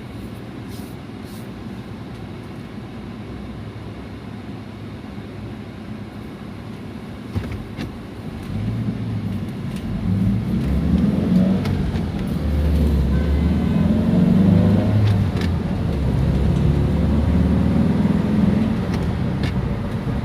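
Car engine and road noise heard from inside the cabin: a low, steady idle for about eight seconds while stopped, then rising and changing in pitch as the car pulls away and gathers speed.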